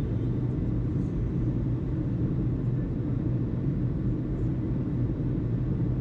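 Steady low rumble with a constant low hum underneath.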